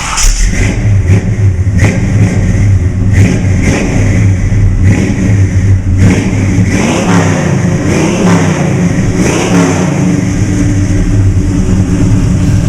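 383 stroker V8 of a 1965 Chevelle with a Flowmaster exhaust, running and revved over and over, its pitch climbing and falling with each blip of the throttle.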